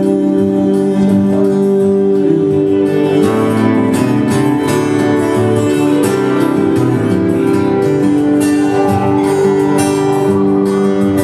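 Instrumental break in a country song: a twelve-string acoustic guitar strummed steadily, with no singing.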